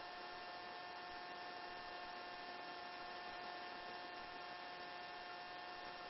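Faint, steady electrical hum and hiss with a few thin steady whining tones, from a helicopter's intercom audio line while nobody is keyed in. No rotor or engine noise comes through.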